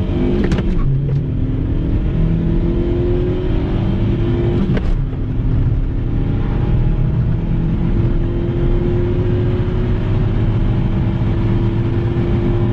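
Small Volkswagen Polo Mk3 four-cylinder petrol engine accelerating hard through the gears. The revs climb slowly, and the pitch drops with a click at the gear changes about half a second in and about five seconds in.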